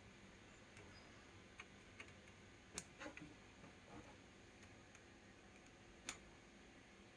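Near silence broken by a few faint, irregular light clicks and taps. The sharpest comes almost three seconds in and another just after six seconds.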